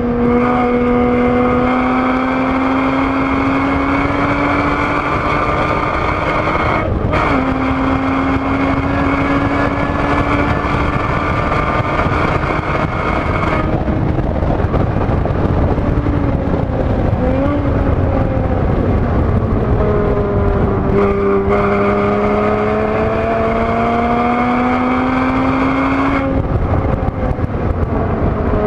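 A 2013 Porsche Boxster S (981) 3.4-litre flat-six at full throttle, heard from inside the cabin. It rises in pitch, shifts up about seven seconds in and pulls on down the straight, then drops off under braking with a short blip on a downshift. It accelerates again out of the corner, and there is another shift or lift near the end.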